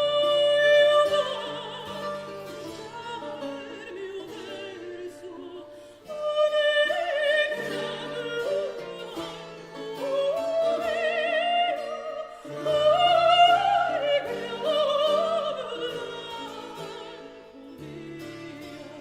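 A classically trained voice singing a late-18th-century Portuguese modinha with wide vibrato, in three phrases with short breaks between them. A plucked-string accompaniment plays underneath.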